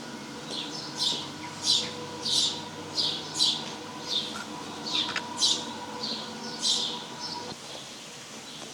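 A songbird singing about a dozen short, high notes that slide downward, a little under two a second, over a steady low mechanical hum that cuts off about seven and a half seconds in.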